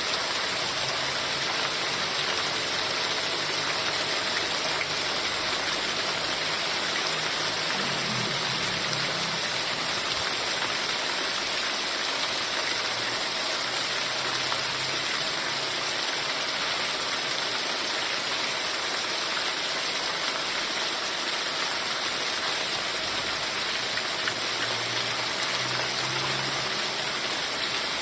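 Heavy rain falling steadily, a dense, even hiss of water with no letup. A faint low hum comes and goes underneath.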